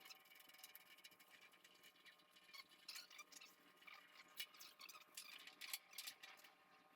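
Near silence with faint, irregular light clicks and ticks, a little busier in the second half.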